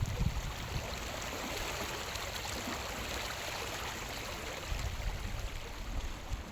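Steady rush of water, like sea water washing near the shore, with low rumbling coming in about five seconds in.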